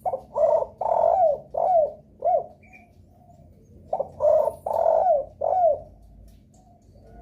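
Derkuku (island collared dove) cooing: two phrases of four or five low, bending coo notes each, the second starting about four seconds after the first. It is a lure call, used to set other derkuku calling in reply.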